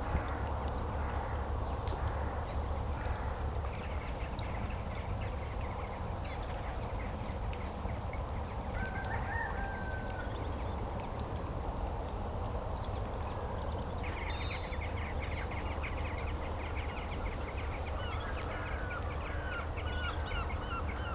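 Birds calling over a steady low rumble: a short call about halfway through, then a fast run of repeated calls starting about two-thirds of the way in, with more calls near the end.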